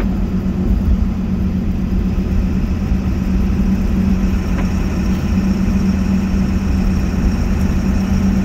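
Pickup truck driving at a steady speed: a constant low engine drone and road rumble heard from inside the cab.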